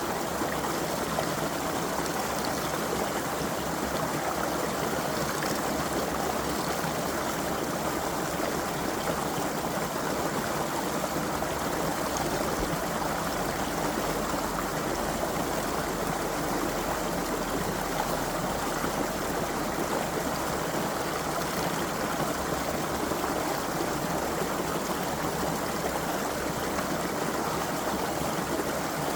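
Creek water running steadily over stones, an even rushing and babbling.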